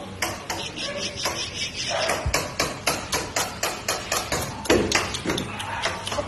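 Rapid, even knocking, about four knocks a second, with a single dull thud among them about two seconds in.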